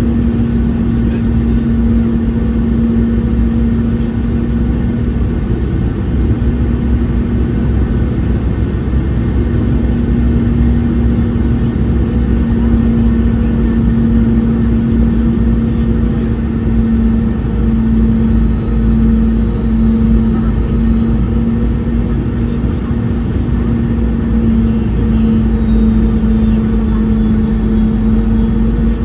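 Boeing 717 cabin noise heard from a window seat near the rear-mounted Rolls-Royce BR715 engines: a loud, steady rumble with a strong hum. Faint high engine whines dip and then rise again near the end.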